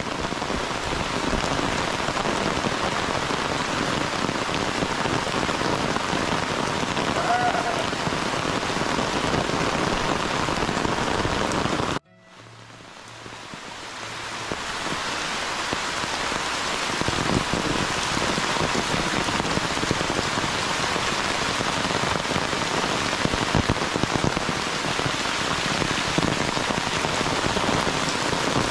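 Heavy rain pouring steadily onto tiled roofs and leaves, with water running off the roof eaves. About twelve seconds in the sound cuts out abruptly and fades back up over a couple of seconds.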